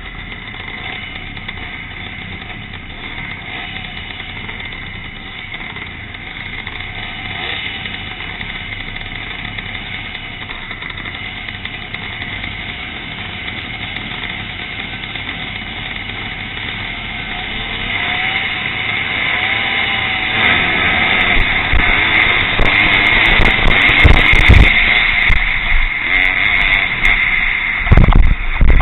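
Classic pre-1965 motocross motorcycles racing, their engines revving and changing pitch as they circuit. The engines get louder from about two-thirds of the way through as bikes pass close. A brief, loud low thump comes near the end.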